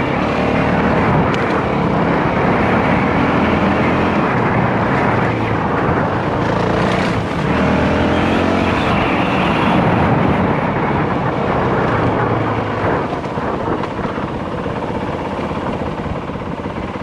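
Single-cylinder dirt bike engine running under way, its revs rising and falling with throttle and gear changes, mixed with wind noise; it cuts off suddenly at the end.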